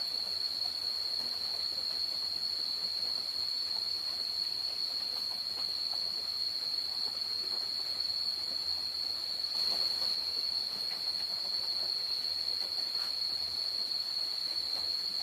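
A steady high-pitched insect drone that holds one pitch without a break, over a faint hiss with scattered small ticks and rustles.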